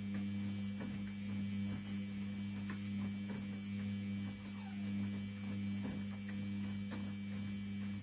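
Washing machine running: a steady low motor hum with faint, irregular knocks and clicks from the drum. The hum cuts off suddenly at the very end.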